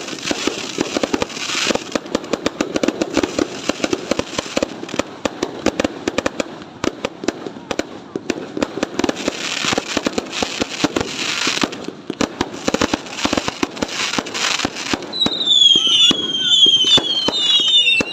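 Fireworks going off in rapid succession: a dense run of bangs and crackling. Near the end, a series of high whistles falling in pitch joins in over the bangs.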